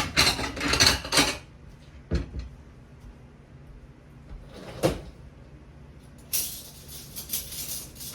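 Kitchen dishes clattering and a cabinet door opening and closing: a burst of clatter at the start, single knocks about two and five seconds in, then a longer stretch of hissy clatter near the end.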